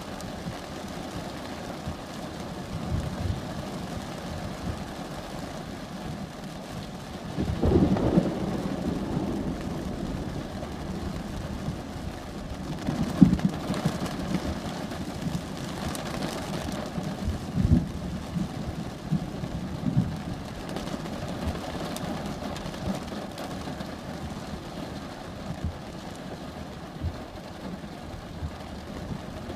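Thunderstorm: steady rain with a rumble of thunder about eight seconds in, followed by a few shorter low rumbles.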